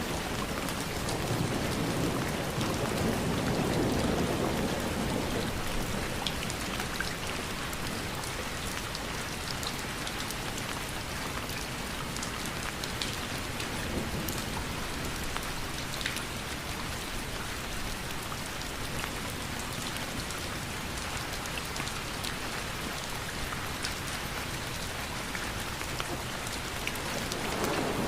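Steady rainfall with individual drops ticking sharply on a surface, and a low rumble that swells in the first few seconds and rises again near the end.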